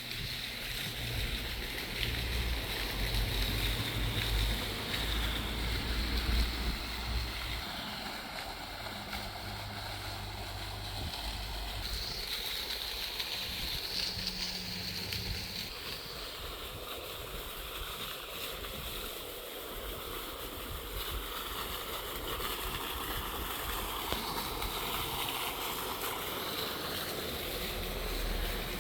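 Outdoor wind gusting on the microphone, with low rumbling buffets over a steady rushing hiss; the buffeting eases about halfway through.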